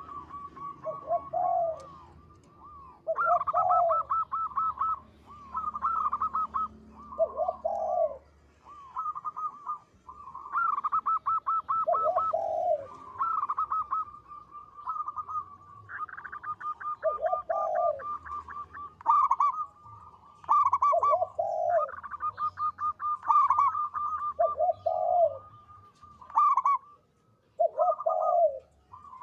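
Zebra dove (perkutut) singing: repeated cooing phrases, each a quick run of pulsed notes followed by a lower, drawn-out note, going on steadily.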